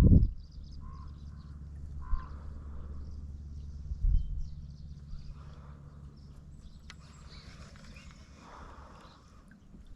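Calm outdoor ambience: scattered short animal chirps and calls over a low, steady engine-like drone that fades away about two-thirds of the way through.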